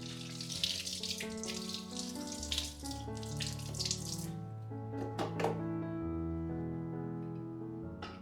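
Water running from a tap into a sink, stopping about four seconds in, followed by a few light clicks. Soft background music with held notes plays throughout.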